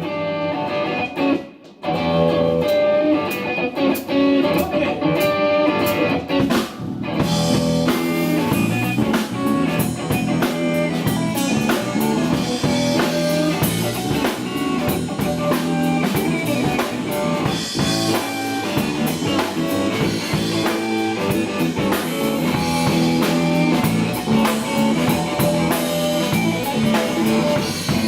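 Live blues-rock band playing, with electric guitar over a drum kit; after a brief gap the full band comes in about two seconds in and plays on steadily.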